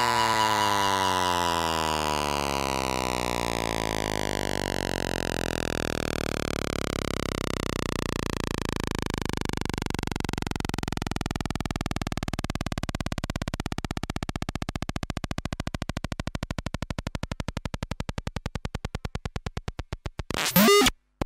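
Electronic synthesizer music: a long sweeping tone slides steadily downward and breaks into rapid pulsing that grows choppier. Near the end a brief loud burst sounds, then it cuts off suddenly.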